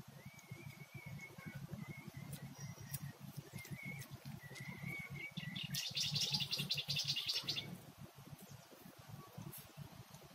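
Birds calling: a thin, wavering whistle-like call for the first half, then a loud, rapid trill of high chirps from about six to seven and a half seconds in.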